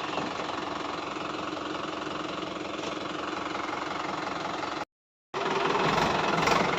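Tractor diesel engine, that of a Swaraj 843 XM, idling steadily with an even knocking beat. About five seconds in the sound cuts out completely for half a second, then comes back louder.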